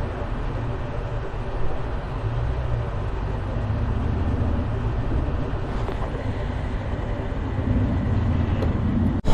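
BMW S1000XR inline-four motorcycle engine running steadily while riding along the road, a continuous low rumble with road and wind noise.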